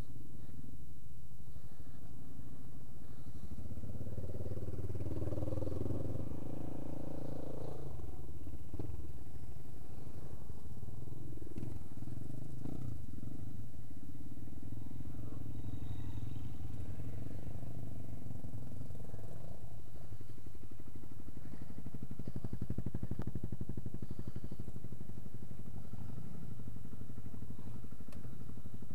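Trail motorcycle engines running at low revs, several bikes together, the note growing louder as bikes come close about four seconds in and again a little past the middle.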